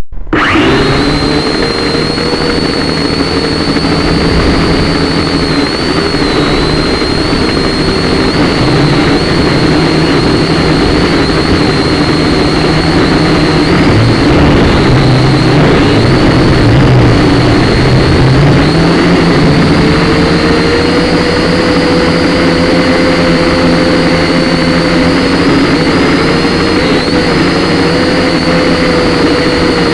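Syma X5C quadcopter's small electric motors and propellers whining steadily in flight, heard through the quadcopter's own onboard camera, the pitch wavering slightly as the throttle shifts.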